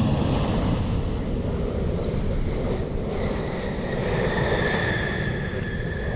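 Strong wind buffeting the microphone, with a jet aircraft's high engine whine setting in about three seconds in and holding steady.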